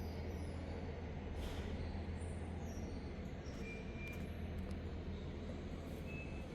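Steady low engine hum with a constant noise bed, and a few faint short high tones over it.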